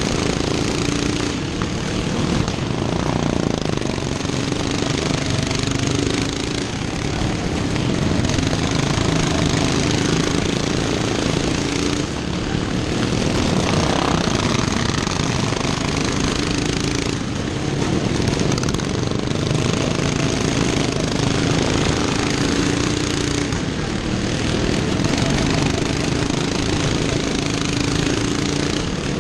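Racing lawn mower engines running hard in a loud, continuous drone, its pitch and loudness swelling and fading every few seconds.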